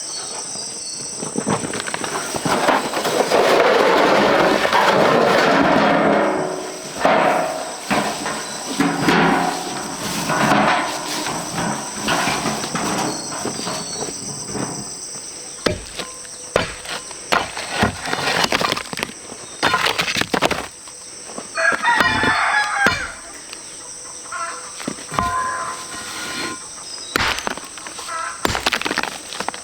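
A loud, drawn-out animal call lasting about four seconds, followed by scattered sharp knocks, over a steady high-pitched hum.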